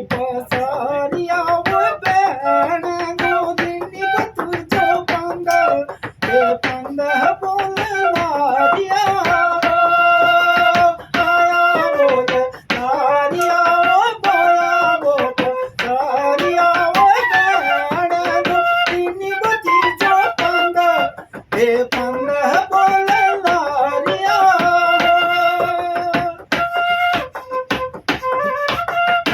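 Bansuri bamboo flute playing a folk melody of held and gliding notes over a steady percussive beat.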